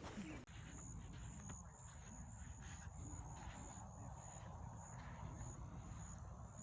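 Insects chirping faintly: a high, thin trill pulsing about three times a second, over a low rumble of background noise.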